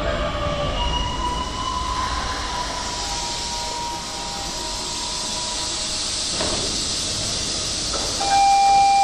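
Electric commuter train moving slowly at a station platform. Its running gear whines in gliding then steady tones over the rumble and hiss of the wheels. About eight seconds in, a loud steady high tone begins.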